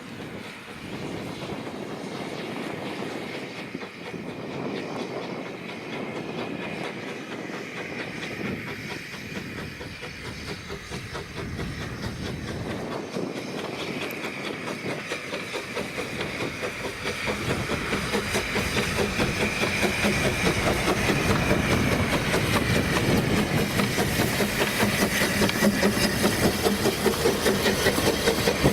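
Narrow-gauge steam train running on the line, its wheels clattering rhythmically over the rails. It grows steadily louder from about two-thirds of the way in as it draws closer.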